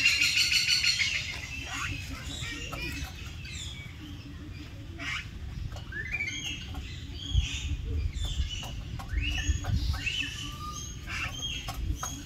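Birds calling: a loud, harsh, rapidly pulsed call in the first second, then a scattered run of short chirps and squawks, several sliding upward in pitch.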